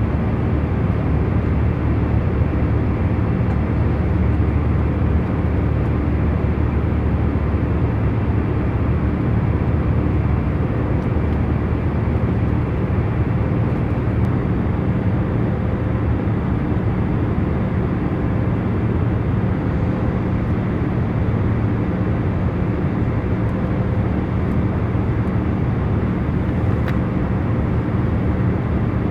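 Steady drone of a jet airliner cabin in cruise: engine and airflow noise, heaviest in the low end, with a few faint steady hum tones under it.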